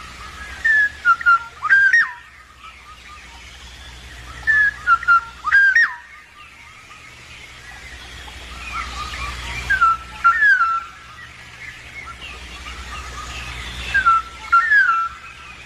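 Black-naped oriole giving its fluty whistled song: four short phrases of gliding notes, one about every four seconds.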